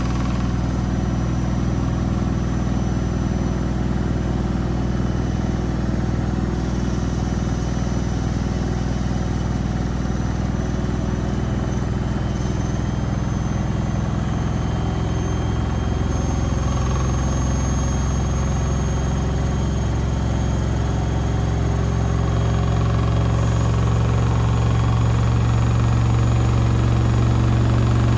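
Beko WMB 71643 PTE washing machine spinning its drum: a steady motor hum with a thin high whine above it, getting louder over the last few seconds.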